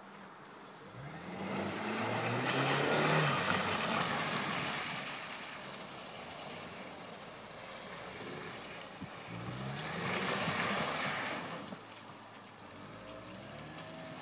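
Opel Corsa's engine revving up twice, rising in pitch each time, as the car slides in circles on snow: once starting about a second in and again around ten seconds in, each rev with a rushing hiss of the tyres spinning on snow. Between and after the revs the engine settles back to a lower, quieter run.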